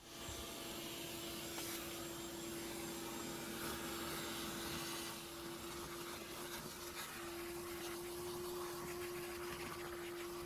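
Shop vacuum running steadily with a constant hum, cleaning leaves, sand and debris out of the base of an air conditioner's outdoor condenser unit.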